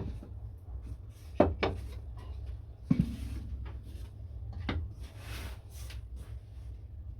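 A few sharp wooden knocks and clatters, the loudest about a second and a half in and another about three seconds in, with a brief rustle later, over a steady low hum.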